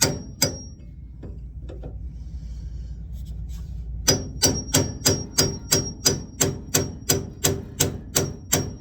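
Hammer blows on a pickle fork driven into the idler arm joint of a 1979 Chevrolet Malibu's steering linkage to break the taper loose. Two quick strikes at the start, a pause of about three seconds, then a steady run of blows about three a second, each with a short metallic ring.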